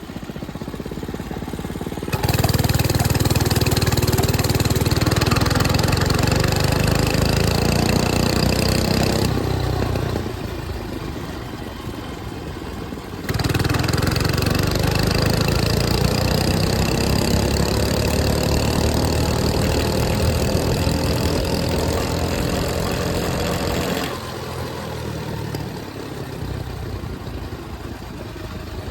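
A 105cc mini bike engine pulling under throttle while riding, its pitch climbing slowly as the bike speeds up. This happens in two long stretches that each start abruptly, with quieter engine running in between and near the end.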